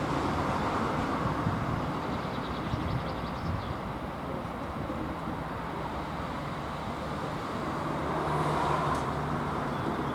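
Steady rumble of a passenger train rolling on past a railway level crossing, dipping in the middle and swelling again near the end.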